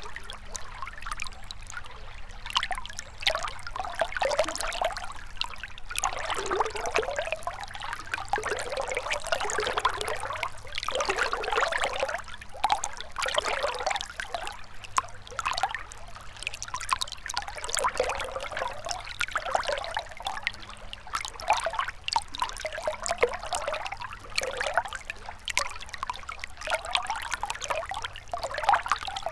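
Gentle river flowing, a continuous irregular trickling and babbling of water.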